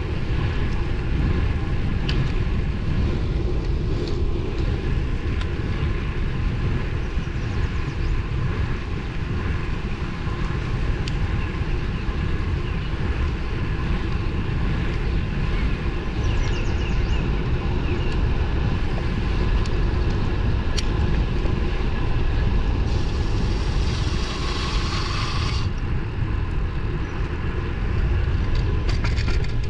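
Wind buffeting the microphone on a moving road bike, with steady road and tyre noise and a faint steady whine. A burst of hiss lasts a few seconds about three-quarters of the way through.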